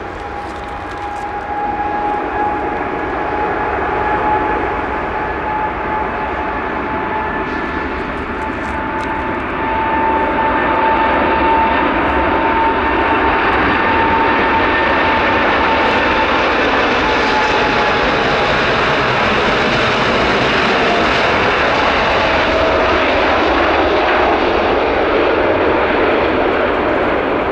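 Four GEnx turbofan engines of a Boeing 747-8 at takeoff thrust: a steady jet roar with a high whine. The roar grows louder about a third of the way in, and the whine drops in pitch later on as the jet passes.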